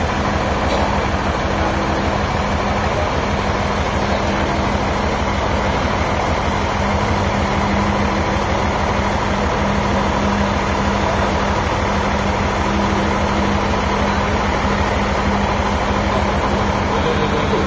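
An engine running steadily at constant speed, with a fast, even low pulsing under a steady hum.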